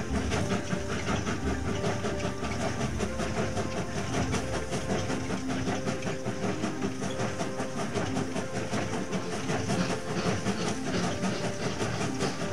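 Train running along the track: a steady, rapid rhythmic clatter of wheels on rails, used as the sound effect for the moving train.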